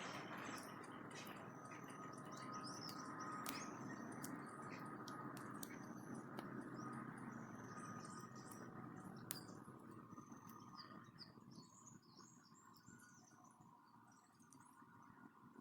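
Small birds chirping and calling in short high notes, with a steady low rush of background noise that fades away about two-thirds of the way through and a few sharp clicks.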